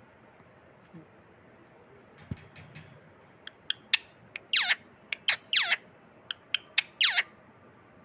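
A parrot calling: a run of short, sharp chirps starting about three and a half seconds in, mixed with three longer screeches that slide down in pitch.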